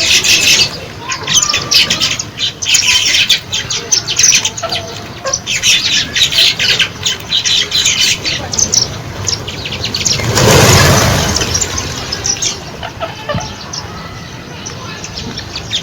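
A flock of birds chirping and calling densely, in rapid overlapping high chirps. About ten seconds in, a loud rushing whoosh swells for a couple of seconds, then the chirping goes on more quietly.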